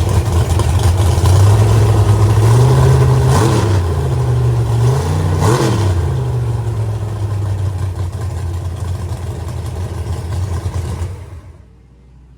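High-powered race boat engine running loud, its pitch sweeping briefly down and back up twice, about three and five and a half seconds in. It cuts off suddenly near the end.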